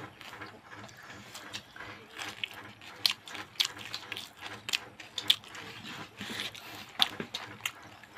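A person chewing a mouthful of rice with lips smacking: an irregular run of short clicks and smacks, with the sharpest ones from about three seconds in.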